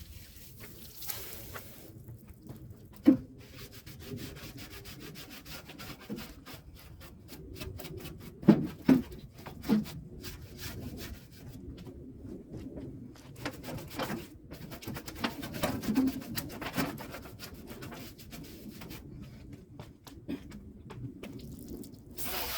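Hand rubbing and scraping on metal hardware, a scratchy, irregular scrubbing with a few sharp knocks of parts striking each other about three seconds in, around eight to ten seconds in, and again near sixteen seconds.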